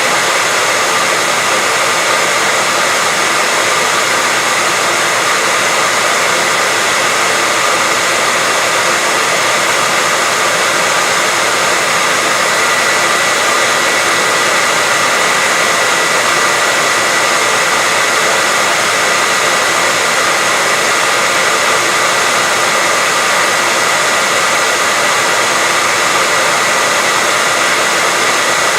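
Steady, unchanging white-noise hiss, thin in the bass and strongest in the middle and upper range, with a faint steady whine running through it.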